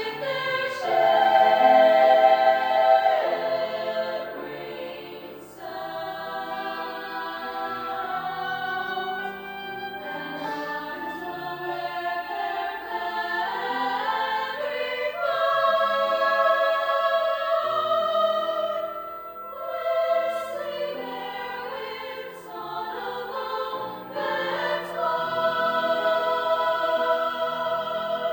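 High school choir singing sustained chords in long phrases, with brief pauses between phrases.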